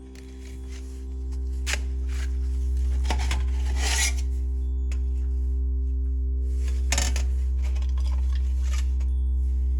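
A steady low motor-like hum that builds up over the first two seconds and then holds, with metal scraping and clinking over it, loudest near the start, in the middle and about two-thirds through.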